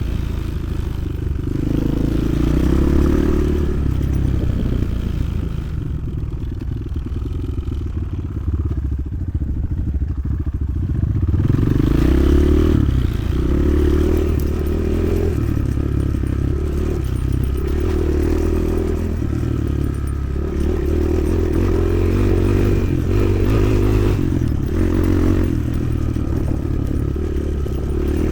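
Motoland XR 300 Lite enduro motorcycle's single-cylinder four-stroke engine running under way, its revs rising and falling with the throttle. It eases off for a few seconds about a third of the way in, then pulls again.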